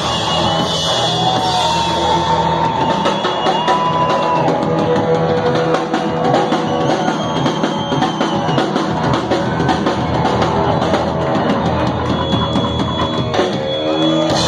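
Garage-rock band playing live, with a busy drum kit hitting steadily under sustained guitar and voice.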